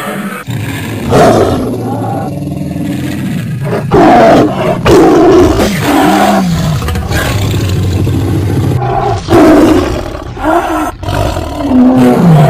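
Several loud cartoon roars from Alex, the animated lion of Madagascar, set against Marinette's roaring screams. Some of the roars slide down in pitch near their ends.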